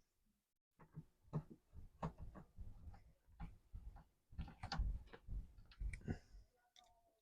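Irregular clicks and light knocks of small metal and plastic parts being handled as a Commodore 64's metal RF shield is fitted back over the board, with a faint brief squeak near the end.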